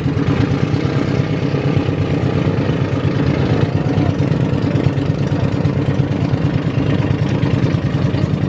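Motorboat engine running steadily at an even speed, with a fast, regular throb.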